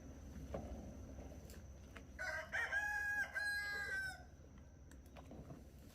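A rooster crowing once: a single call of about two seconds that begins about two seconds in and holds a long, steady high note before it stops.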